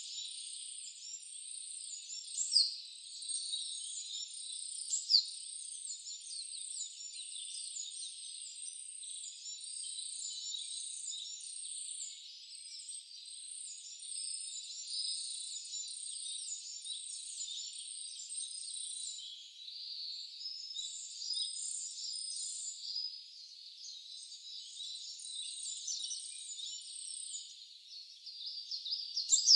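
Wild birds chirping and singing over a steady hiss, many short high notes overlapping, with two sharp loud calls about two and a half and five seconds in.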